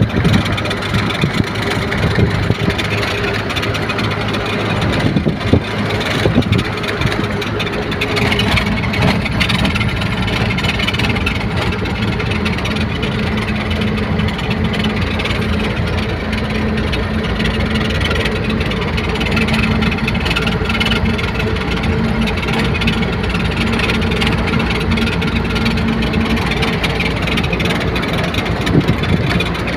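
Truck's diesel engine running steadily, its pitch stepping up about eight seconds in and holding there.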